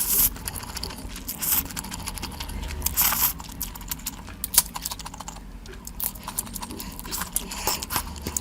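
Close-miked eating sounds: chewing and biting with many small wet mouth clicks, and a few louder bursts spread through.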